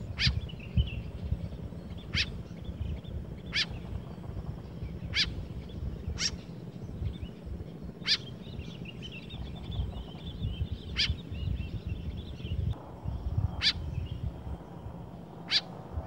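White-breasted woodswallow giving short sharp calls, about nine of them spaced one to three seconds apart, with faint twittering in between. A low rumble of wind on the microphone runs underneath.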